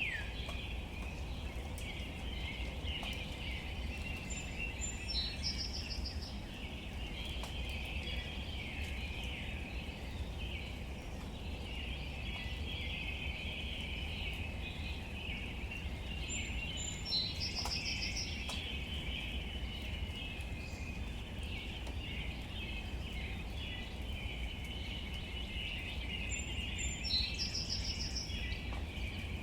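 Outdoor natural ambience: a steady high chirping chorus of birds or insects over a low rumble, with a bird singing the same short phrase three times, about ten seconds apart.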